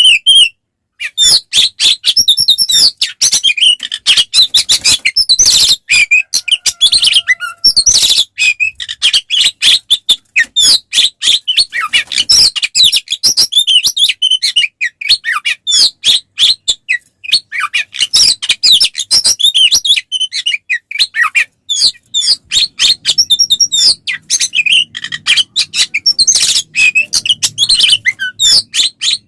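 Oriental magpie-robin (kacer) singing in a loud, nearly unbroken run of rapid, varied whistles and chirps. This is the agitated 'fighting' song (gacor tarung) used as a lure to rouse other magpie-robins.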